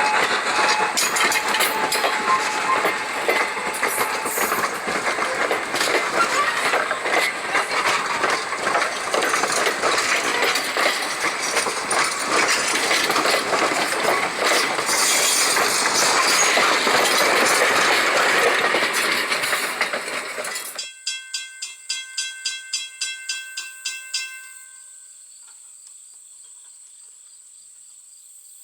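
Steam train passing close: ex-BEDT H.K. Porter 0-6-0T tank locomotive and its cars, a loud dense rush of running noise with rail clatter. About two-thirds of the way through it cuts off suddenly, leaving a few seconds of rapid rhythmic ticking, about four a second, and then a steady high insect trill.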